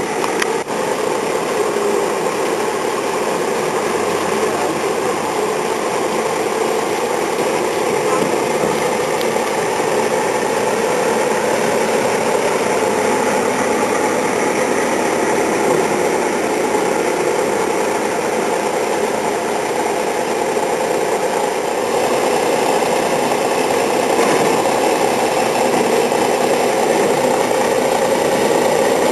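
Engine running steadily with an even drone that holds at one level throughout.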